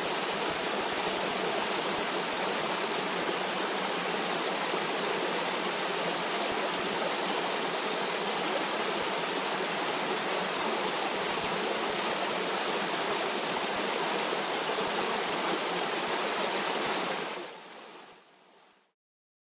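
Steady rushing and babbling of a stream, fading out near the end to silence.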